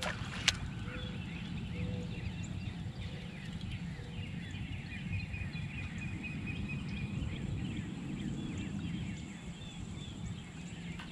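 Songbirds chirping over a steady low rumble, with one sharp click about half a second in.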